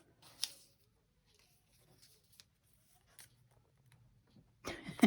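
Paper cutouts being handled and shuffled: light rustling with a short louder rustle about half a second in, and a busier patch of rustling with a sharp click near the end.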